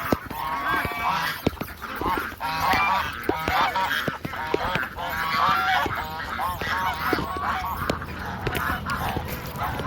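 A flock of birds calling all at once, many short pitched calls overlapping and repeating rapidly without a break.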